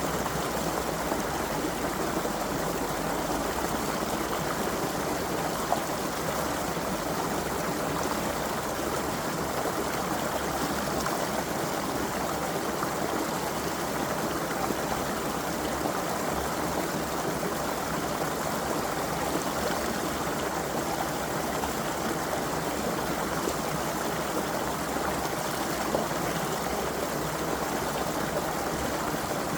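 A small creek flowing, a steady, unbroken rush of running water.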